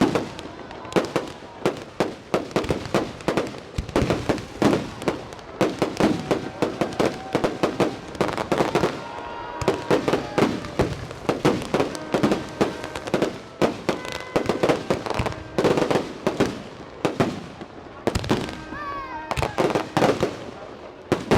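Fireworks display: a continuous, irregular barrage of bangs and crackles, several a second.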